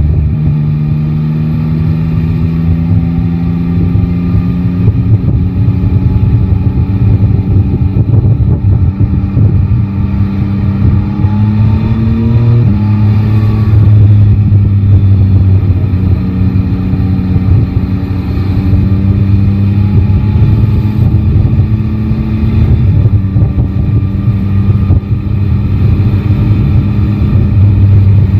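Yamaha Tracer 9 GT's 890 cc inline-three engine pulling in gear, its pitch rising slowly for about twelve seconds. It drops suddenly at an upshift, then runs at a fairly steady speed under a rush of wind noise.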